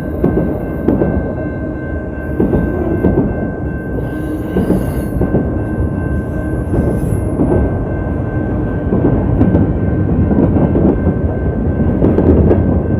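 Freight train rolling through a level crossing up close, with a continuous rumble and irregular clatter of wheels and cars. The sound is coarse and muffled, heard through a phone microphone with water in it.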